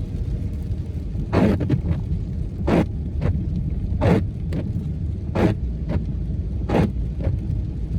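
Small car being driven, heard from inside the cabin: a steady low road and engine rumble. A short sweeping stroke repeats evenly about every second and a third.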